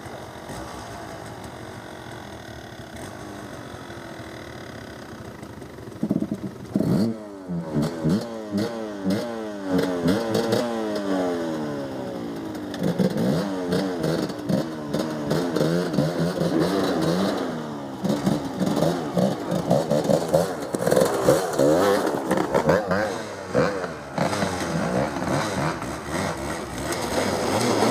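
Off-road motorcycle engine running low and steady, then from about six seconds in revved again and again, its pitch climbing and dropping in quick repeated sweeps, as the rider tries to lift the front wheel and get the bike through mud.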